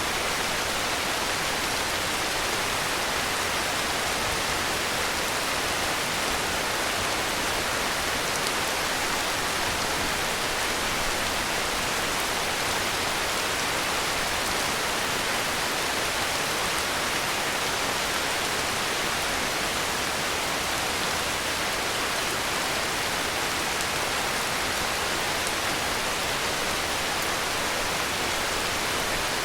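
Heavy rain falling as a steady, even hiss, with no separate drops or thunder standing out.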